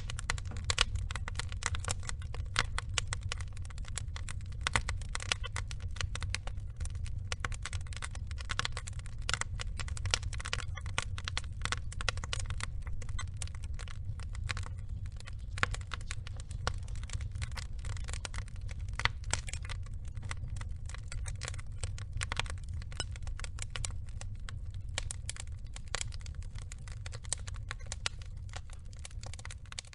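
Wood logs burning in a fire. Dense, irregular crackling and popping over a steady low rumble of the flames.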